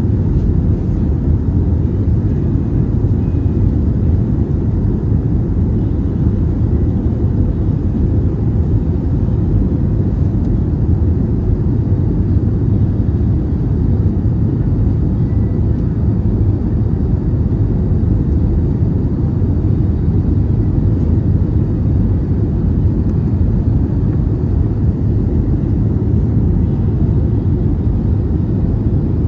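Steady cabin noise inside an Airbus A320neo in flight: an even low rumble of its CFM LEAP-1A engines and airflow over the fuselage, with a faint steady hum on top.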